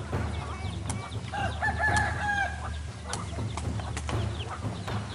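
A rooster crowing once, a drawn-out call lasting over a second, starting about a second in, among short chirps and clicks over a steady low hum.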